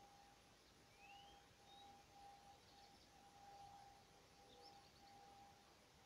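Faint, distant songbirds chirping, with a quick rising note and a few brief trills. Under them runs a steady pure tone that keeps breaking off and starting again every second or so.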